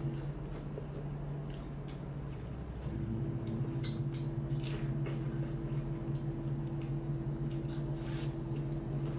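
Close-up eating sounds of a large piece of braised meat on the bone being bitten, torn and chewed: wet squishing and smacking mouth noises with irregular clicks. A steady low hum runs underneath.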